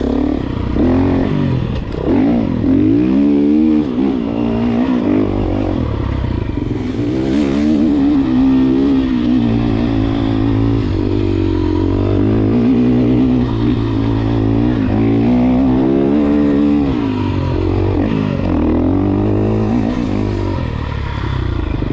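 Enduro dirt bike engine being ridden hard, revs rising and falling again and again as the rider opens and closes the throttle.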